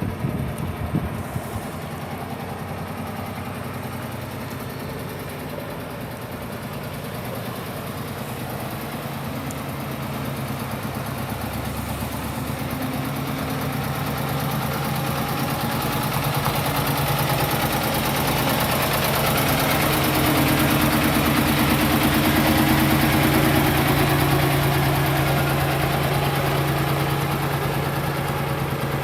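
Kenworth T680 semi truck's diesel engine idling steadily at an even pitch. It grows louder through the middle and eases slightly near the end.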